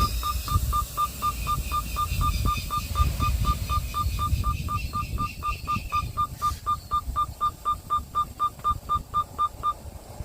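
Rapid electronic beeping, about four short beeps a second on one steady pitch, that stops near the end, over a low engine rumble. A higher wavering sound fades out about halfway.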